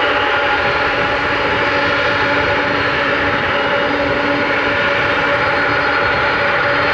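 Jet engines of a Boeing 747-400 running loudly and steadily: a dense rush of noise with several steady whining tones over it.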